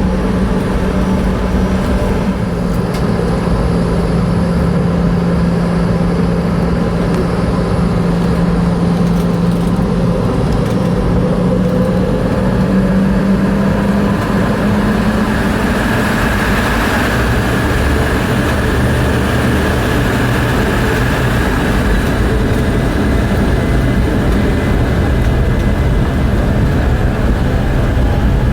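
Cabin noise inside a Boeing 717-200 on the ground: the steady hum of its rear-mounted Rolls-Royce BR715 turbofans. The engine tone rises a little about halfway through, and a hiss grows just after.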